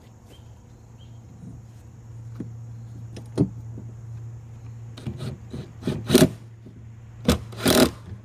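Metal knocks and rattles from a steel tailgate frame, made from a hospital bed frame, being handled and fitted to a flatbed, a few single knocks and then a cluster in the second half. A steady low hum runs underneath.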